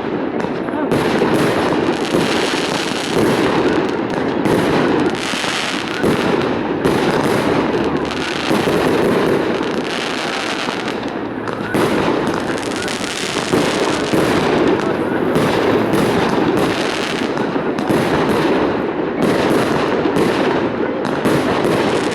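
Fireworks display: a continuous, dense barrage of bursts and crackling, with no pauses.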